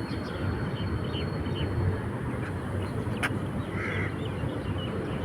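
Steady low rush of sea and wind at the shore, with birds calling over it: one harsh call about four seconds in and faint short chirps throughout. A single sharp click just after three seconds.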